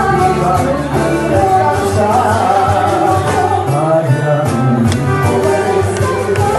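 A Latin American song, sung with instrumental accompaniment and a steady bass line.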